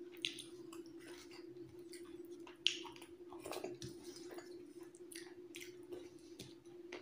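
Soft chewing and mouth sounds of a person eating rice and chicken curry by hand, with scattered small ticks and two sharp clicks, one just after the start and one near the middle. A steady low hum runs underneath.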